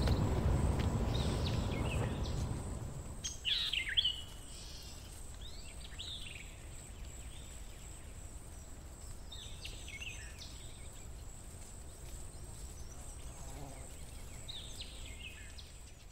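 Birds chirping in short, scattered calls over a low outdoor background hum that fades away in the first few seconds; the loudest chirps come a little over three seconds in.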